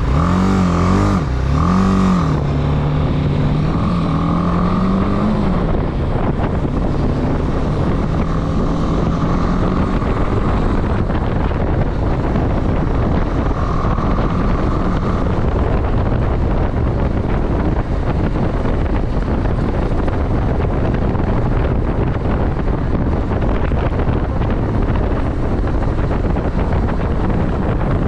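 Motorcycle engine pulling away through the gears; its pitch climbs and drops at each shift in the first few seconds, then rises more slowly. After that it is steady riding under a heavy wind rumble on the microphone.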